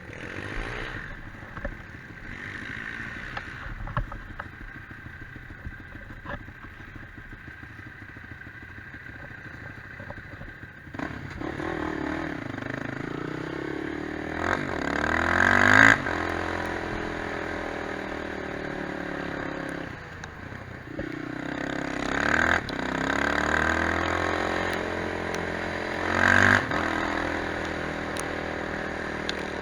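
Quad bike engine running, fairly low for the first ten seconds or so, then louder, revving up three times with rising pitch: about halfway through and twice near the end.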